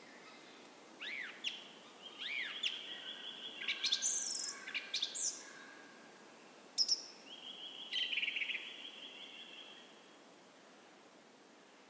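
Songbirds singing and calling: two short arching chirps in the first couple of seconds, then thin high notes and level trills, with another trill about eight seconds in before it quietens.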